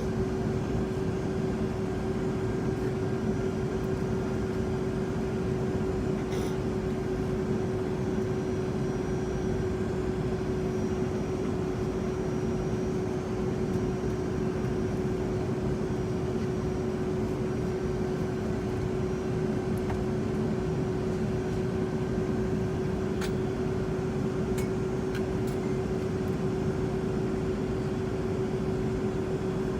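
Steady cabin noise inside a Boeing 757-200 airliner: the constant drone of the jet engines and rushing air, with one steady mid-pitched hum running through it.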